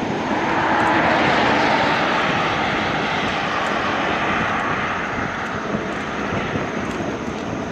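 Airplane passing by, a loud rushing engine noise that peaks about a second in and then slowly fades.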